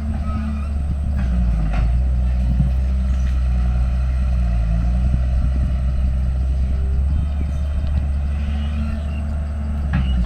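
Diesel engine of heavy earthmoving machinery running steadily with a deep, low hum, with a few light knocks.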